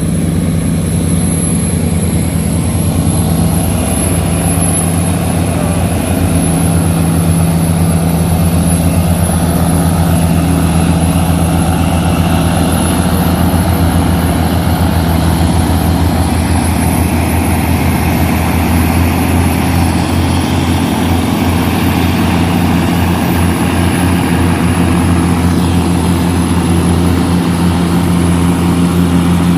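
Diesel engines of river tugboats towing barges, running steadily with a low, even drone.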